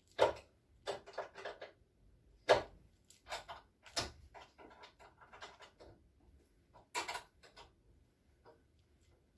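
Irregular metallic clicks and knocks of a 10 mm wrench and battery hardware while a car battery is being swapped, the loudest knocks near the start and about two and a half seconds in.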